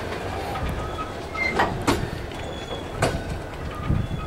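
Freight train hopper wagons rolling past close by, their steel wheels rumbling on the rails with a few sharp clacks over the rail joints. Short, faint high squeals from the wheels come and go.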